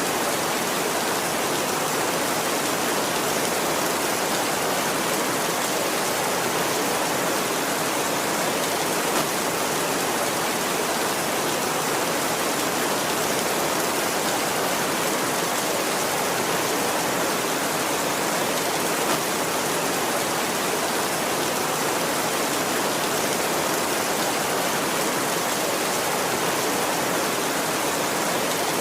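Steady heavy rain, an even hiss of countless drops that does not change.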